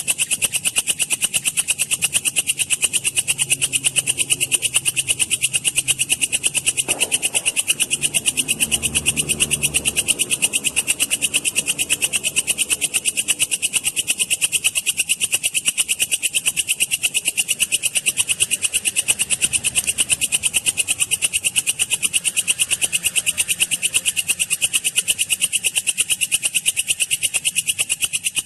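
Walang kecek, an Indonesian bush cricket, stridulating in a rapid, even train of high, buzzy chirps that runs on without a break.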